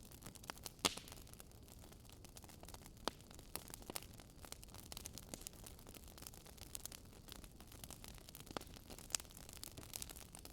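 Wood fire crackling in a fireplace, irregular small pops and snaps with a sharper pop about a second in, over a faint steady hiss.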